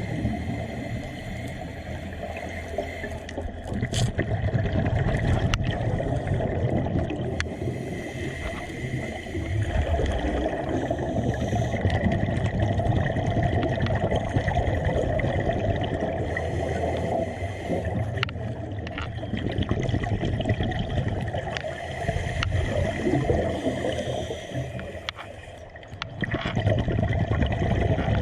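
Water gurgling and bubbling over a steady low rumble, swelling and fading slowly, with a brief lull near the end.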